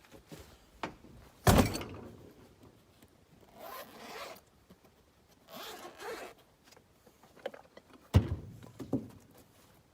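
Chainsaw chain being handled during a chain change: two sharp knocks, one early and one near the end, with two short raspy, zipper-like rattles between them.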